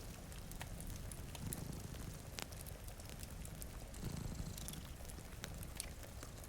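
A cat purring, in low swells that come and go slowly, over a log fire crackling with scattered sharp pops and a steady hiss of rain.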